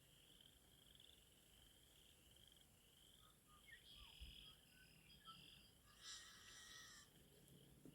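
Faint frog chorus from the marsh: a steady, pulsing high trill, with a few faint bird calls about halfway through.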